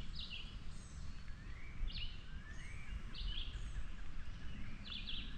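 A songbird calling over and over, about four calls, each a quick rising note that ends in a short trill, over a low steady outdoor rumble.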